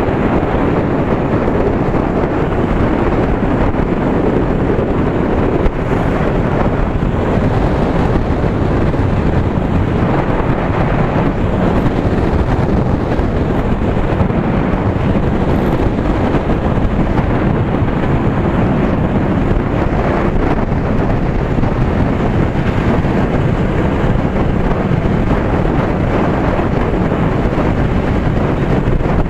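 Wind rushing over the microphone of a moving bike, steady throughout, with road and vehicle noise underneath.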